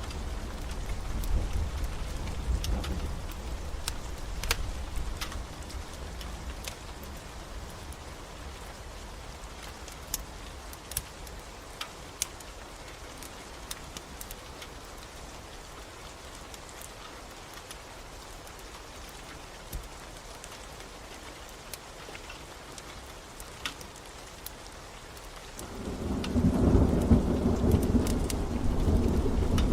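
Steady rain with a wood fire crackling in sharp, scattered pops. A low roll of thunder fades out over the first few seconds, and a louder rumble of thunder builds about 26 seconds in and carries on to the end.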